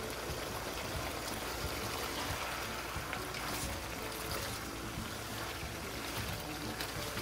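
Chicken and pork adobo sizzling steadily in a frying pan with fine crackles as it is stirred with a spatula; the sauce has cooked down, so the meat is frying in its own fat and oil.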